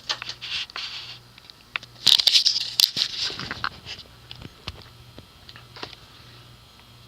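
Crinkly rustling and scattered sharp clicks, loudest in a burst about two seconds in, then settling to a few faint clicks over a faint steady low hum.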